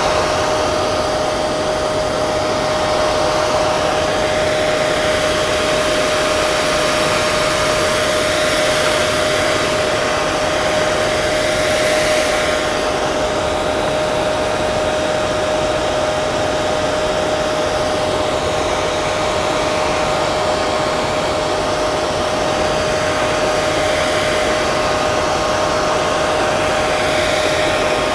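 Hair dryer running continuously, a steady rush of blown air with a constant motor whine.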